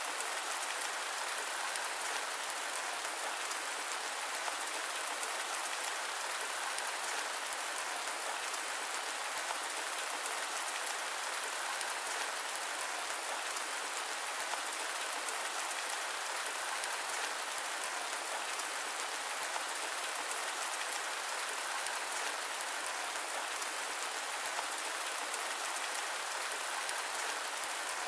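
Steady rain: an even hiss of many small drops, unchanging throughout, with no deep low end.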